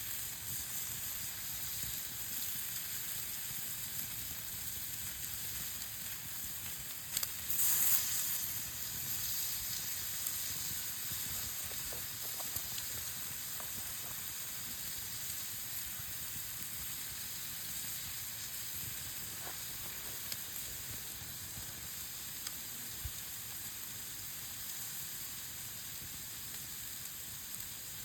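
Meat sizzling as it grills over a campfire: a steady hiss with a few faint crackles, swelling louder briefly about seven seconds in.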